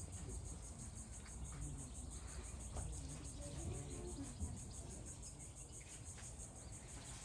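Insects trilling in a fast, steady, even pulse, high in pitch, over a low outdoor rumble.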